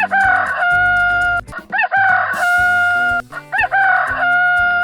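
Rooster crowing cock-a-doodle-doo three times in a row, each crow ending in a long held note.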